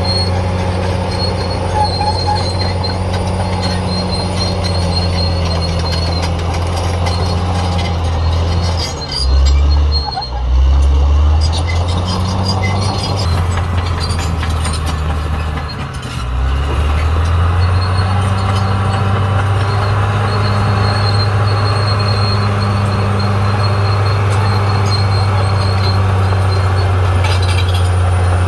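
Caterpillar D6R XL bulldozer's diesel engine running steadily under load, with a thin high-pitched squeal from the tracks coming and going. About a third of the way in the engine note drops and swells louder for a couple of seconds. It dips again a little past halfway, then settles back to a steady run.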